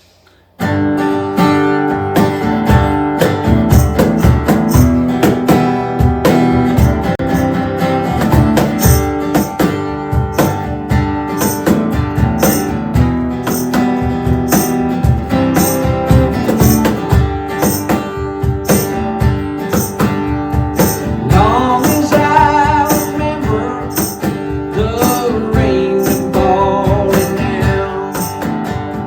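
Acoustic guitar strumming a steady country-rock rhythm, starting about half a second in.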